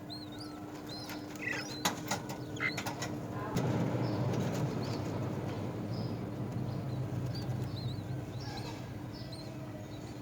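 Birds chirping at a nest with short, high, repeated calls, a few sharp clicks, then a rustling flutter of wings from about three and a half seconds in that fades over several seconds.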